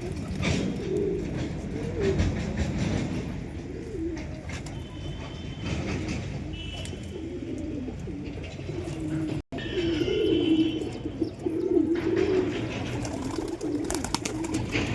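Domestic pigeons cooing continuously, several low warbling coos overlapping, with a brief dropout in the sound about halfway through.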